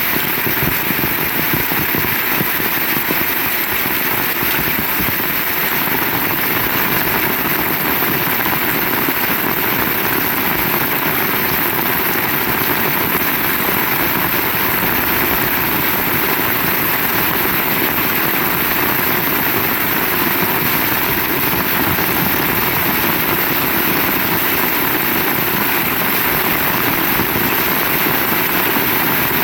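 Heavy rain falling in a steady, dense hiss with no breaks.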